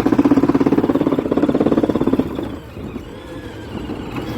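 Ride-on toy tractor's electric drive motor and gearbox running with a fast rattle for about two seconds as the pedal is held down, then dropping away to a faint hum.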